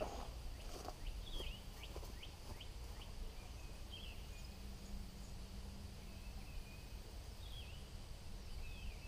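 Outdoor ambience: short bird chirps, scattered and faint, over a low steady rumble of wind.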